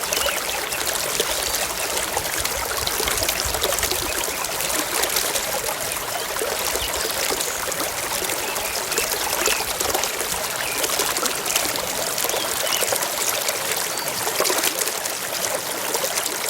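A small stream trickling and babbling steadily, a constant rush of water dotted with small bright splashes and gurgles.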